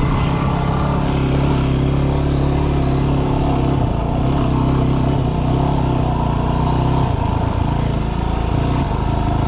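Yamaha WR250R's 250 cc single-cylinder four-stroke engine running while riding, its note shifting a couple of times as the throttle changes.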